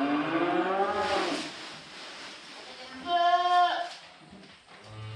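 Weaned calves bawling for their mothers: one long call that rises and then falls in pitch, fading out about a second and a half in, then a shorter, higher and louder bawl about three seconds in.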